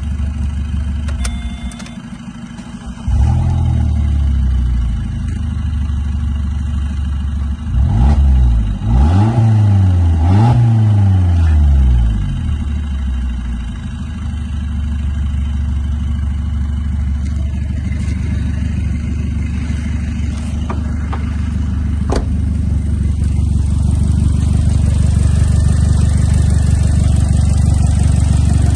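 Opel Z12XEP 1.2-litre four-cylinder petrol engine running in an engine test. It is blipped three times between about eight and twelve seconds in, then idles steadily.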